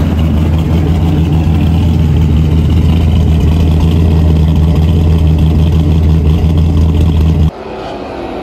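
V8 race ute's engine idling steadily, heard close to its side-exit exhaust. About a second before the end it cuts off sharply to a quieter, more distant engine sound.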